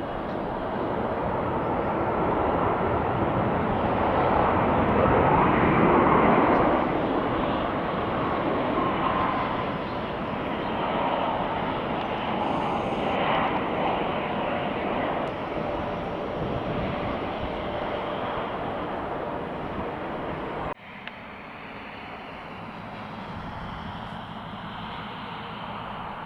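Jet airliner engines passing: a broad rumble with a faint whine that swells to its loudest about six seconds in and slowly eases off, the whine dropping slightly in pitch. Near the end the sound cuts abruptly to a much quieter steady hum.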